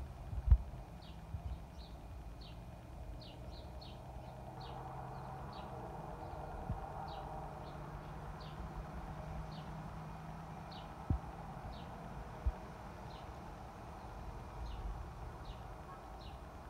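A bird giving short, high chip calls over and over, roughly one or two a second, over a steady outdoor background hum. A few dull low thumps come through.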